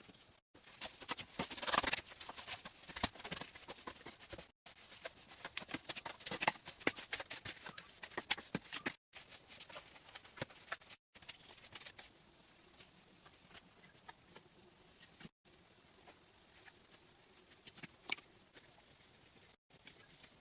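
Irregular light knocks and clicks, dense and busy for the first dozen seconds, then sparser and quieter. A faint steady high-pitched tone comes and goes in the later part, and the sound drops out completely for a moment several times.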